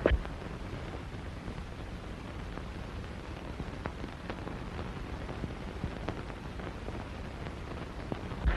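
Old film soundtrack hiss with scattered faint crackles and ticks, a short knock at the very start and a dull low thump near the end.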